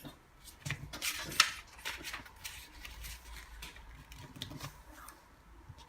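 A sheet of paper being folded and creased by hand: irregular crisp rustles and crinkles, the sharpest about a second and a half in.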